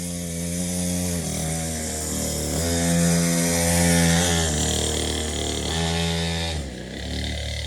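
Small dirt bike engine running and revving, its pitch stepping up and down several times as the throttle is worked.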